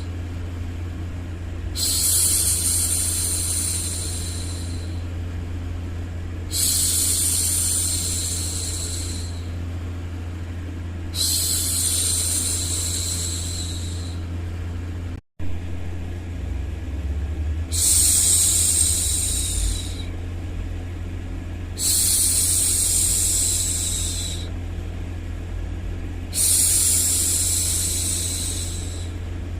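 A woman's long, breathy 'shhh' hushing sounds for soothing a baby, repeated six times, each held for two to three seconds, over a steady low hum. There is a brief dropout about halfway through.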